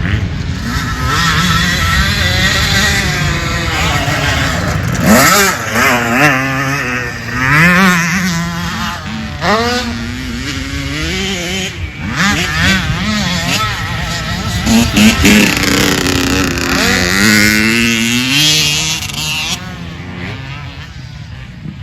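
Motocross dirt bike engine revving as it rides, its pitch climbing and dropping again and again through acceleration and gear changes, then fading away near the end.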